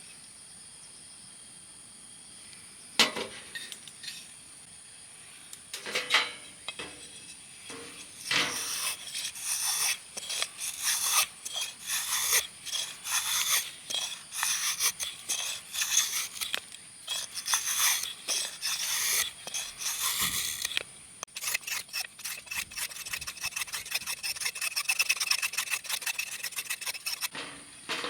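Scraping and rubbing strokes of food preparation: two sharp knocks first, then a long run of irregular scraping strokes, turning into quicker, finer strokes over the last few seconds.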